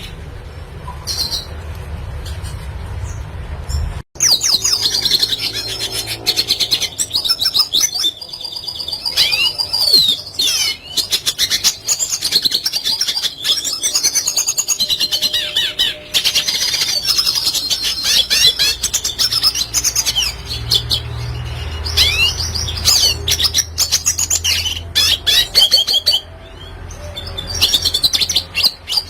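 A red siskin singing a long, fast twittering song of chirps, trills and quick whistled glides. It follows a low rumble at the start that breaks off abruptly about four seconds in.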